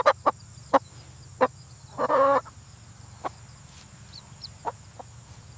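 Chicken clucking: scattered short clucks, with one longer drawn-out cluck about two seconds in.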